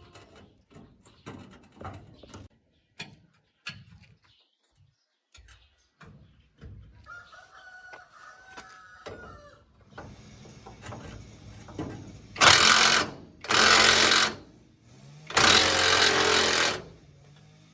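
Scattered knocks, then a rooster crowing about halfway through. A machine then starts a steady low running hum, cut by three loud noisy bursts of about a second each near the end.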